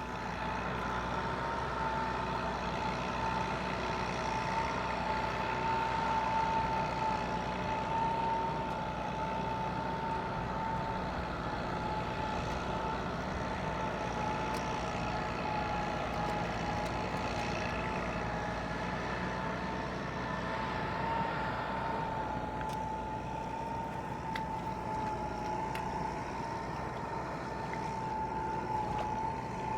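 Tractor engine running steadily, with a strong whine that wavers slightly in pitch.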